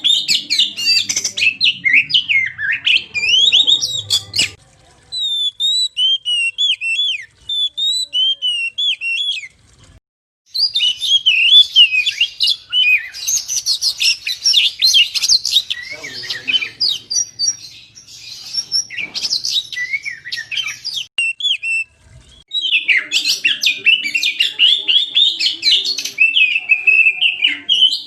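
Oriental magpie-robin (kacer) in full, vigorous song: fast, varied whistles and chattering phrases. The song thins to separate phrases after a few seconds, comes back dense about ten seconds in, and breaks off briefly about 22 seconds in.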